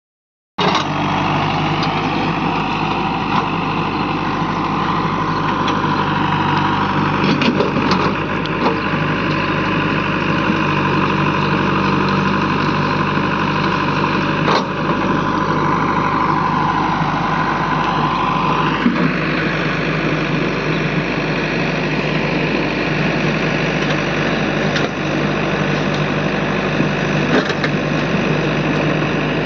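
Diesel engines of a JCB 3DX backhoe loader and tractor running steadily, with a few sharp knocks. A little past halfway the pitch dips and then rises again as the engine is revved.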